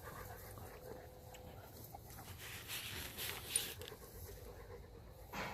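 Puppies panting and moving about, with a few soft scuffling noises around the middle.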